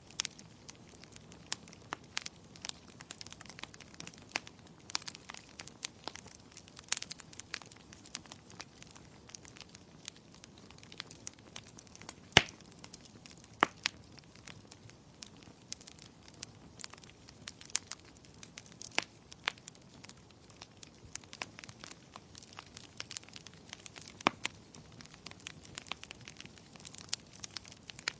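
Fireplace fire crackling: an irregular scatter of small sharp pops and snaps over a faint hiss, with one loud pop about twelve seconds in.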